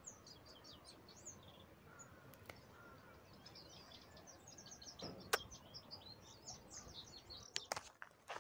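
Small birds chirping faintly, a quick run of many short high notes, busiest in the second half. A single sharp click about five seconds in stands out above them.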